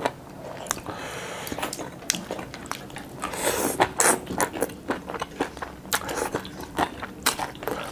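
Close-miked eating: biting and chewing with irregular crisp clicks and wet smacks, busiest about halfway through.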